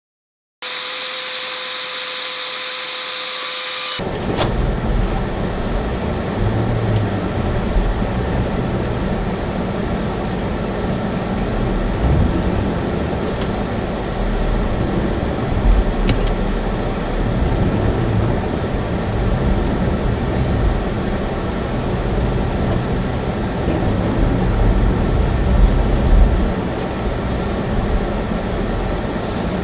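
A steady electronic tone for about three seconds, then the running noise of a small car driving, heard inside the cabin: engine and low tyre and road rumble that rises and falls a little.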